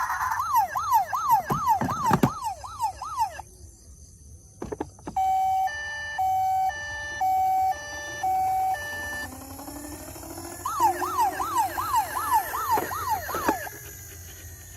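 Electronic siren of a toy emergency vehicle: a fast wail sweeping up and down about three times a second, then a two-tone hi-lo pattern about once a second, then the fast wail again. A few knocks come in between.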